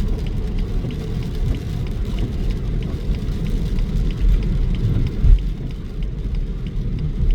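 Steady low rumble of a car driving, heard from inside, with a faint even ticking of about two to three a second.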